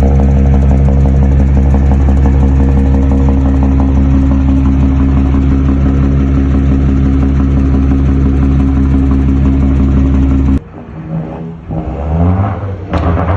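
Ford Cargo 3230 truck's diesel engine running steadily, its exhaust note loud and even. It cuts off abruptly about ten and a half seconds in, and quieter sounds of shifting pitch follow.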